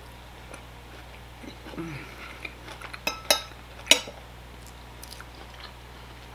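Eating sounds: chewing with a few sharp clicks from the fork on the ceramic plate and from the mouth, the loudest a little under four seconds in. A short hummed "mm" comes near two seconds in, over a steady low background hum.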